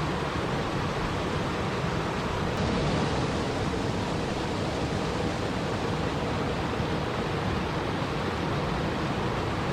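Steady, even rushing of flowing water, a continuous noise without distinct splashes or drops.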